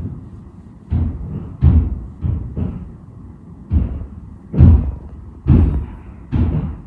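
Construction work banging through the building structure: about eight heavy, dull thuds and knocks at irregular intervals, heard through the apartment's walls or ceiling.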